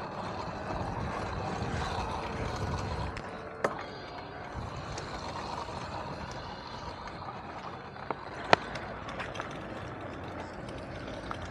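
Electric dirt bike riding along a dirt trail: steady tyre and wind noise, with a couple of sharp clicks and knocks from the bike.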